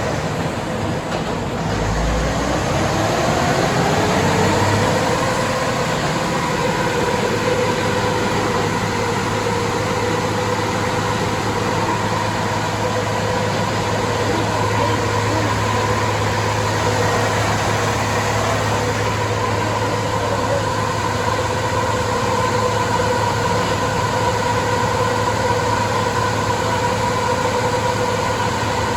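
Rebuilt Cat C15 inline-six diesel in a Kenworth W900 running hard on a chassis dyno, with engine, tyres and rollers droning loudly. A whine climbs in pitch over about three seconds, a few seconds in, then holds steady as the engine is held under load.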